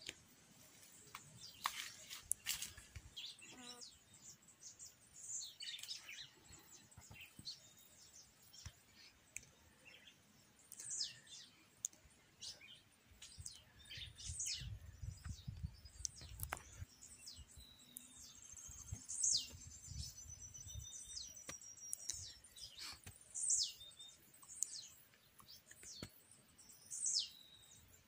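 Wild birds chirping: many short, high, downward-sliding calls scattered throughout, with a thin steady high whistle held for a few seconds in the middle. A low rumble comes in about halfway through.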